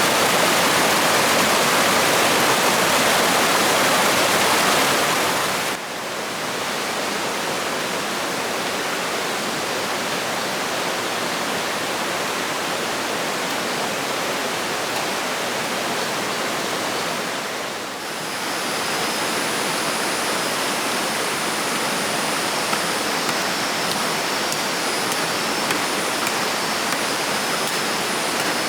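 Steady rushing of flowing water, an even hiss. It is loudest for the first six seconds, drops abruptly to a lower level, and changes again about eighteen seconds in, where a faint thin high tone joins it.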